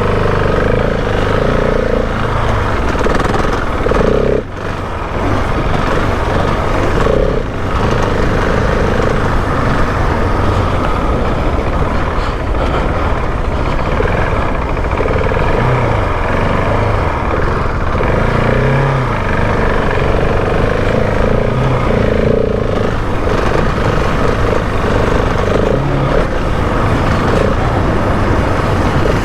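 Husqvarna 701 Enduro's single-cylinder four-stroke engine running continuously under a rider on a motocross track, its revs rising and falling with the throttle. The sound drops briefly about four and a half seconds in and again around seven seconds, as if the throttle is closed.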